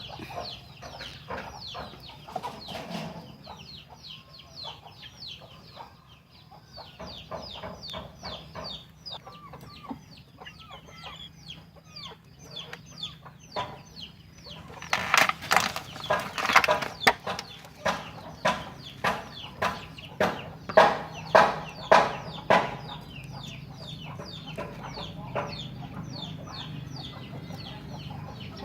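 Junglefowl clucking and calling: a continuous run of short, high calls, with a louder stretch of sharp calls at about two a second in the middle.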